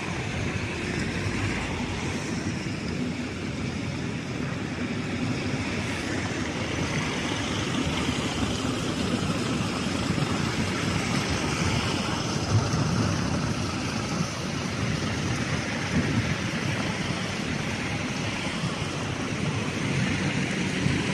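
Diesel engines of river cargo ships running steadily as one ship overtakes another, a continuous even engine noise.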